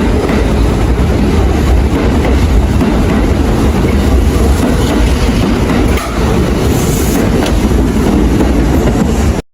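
Kintetsu electric train running alongside the platform: a loud, steady rumble of wheels and motors with faint clicks of wheels over rail joints, cutting off suddenly near the end.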